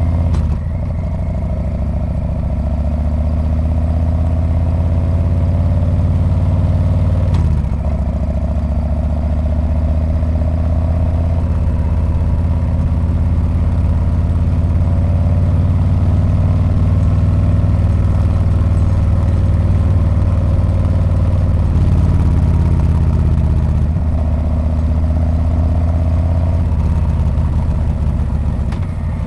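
Harley-Davidson Street Bob's V-twin engine and exhaust running under way, the note climbing as it pulls and dropping briefly about half a second in, about seven and a half seconds in, and again near the end.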